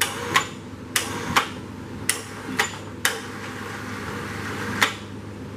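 Irregular sharp metal-on-metal clanks, about eight of them, mostly bunched in the first three seconds with a last one near the end, as the engine is lowered on its hoist chain onto an engine stand.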